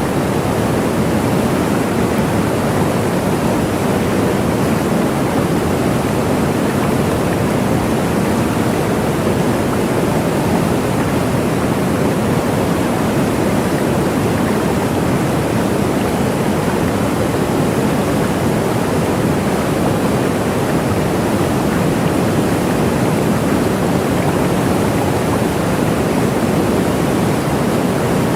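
Waterfall: a steady, unbroken rush of falling water, fullest in the low-middle range.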